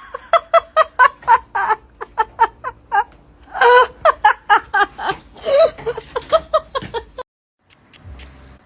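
A person laughing in quick, repeated bursts for about seven seconds, cut off suddenly.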